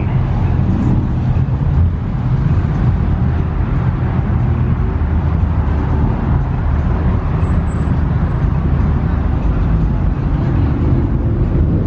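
Steady low rumble of car engines running at a busy car meet, with no single car standing out.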